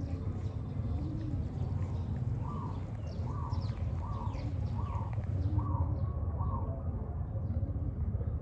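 Repeated short animal calls, each rising and falling in pitch: low calls about once a second throughout, and a run of about six higher calls through the middle, over a steady low rumble.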